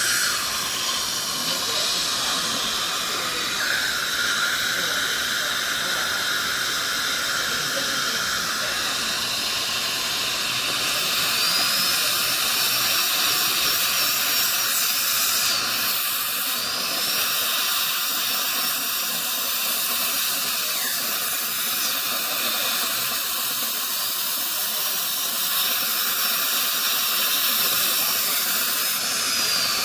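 High-speed dental handpiece whining in bursts over a steady hiss, with its pitch changing between passes.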